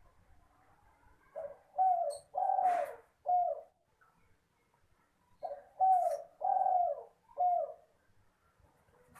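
Spotted dove cooing: two phrases of four notes each, the third note of each phrase held longest, about four seconds apart.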